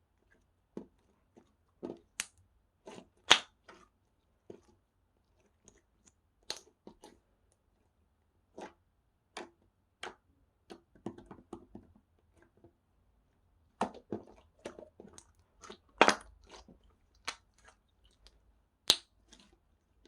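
Slime being squished and poked by hand, giving irregular sharp pops and clicks, some in quick clusters, the loudest about three seconds in and again around sixteen seconds.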